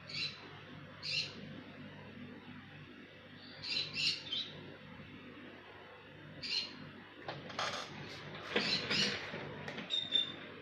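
Short, high bird chirps: single calls near the start and about a second in, a quick cluster of them around four seconds, another at six and a half, all over a faint steady low hum. In the last few seconds come rustling and knocks as the phone is moved.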